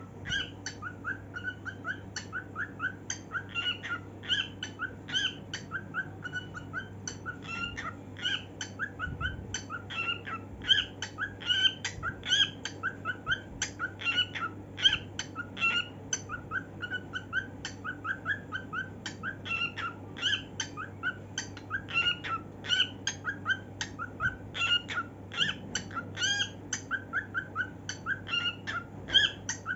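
Cockatiel singing in a long, continuous run of short, repeated chirps, about two or three a second, over a steady low hum.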